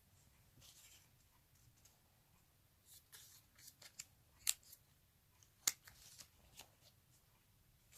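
Faint handling of paper and stickers: soft rustling with a few sharp clicks, the two loudest about a second apart near the middle.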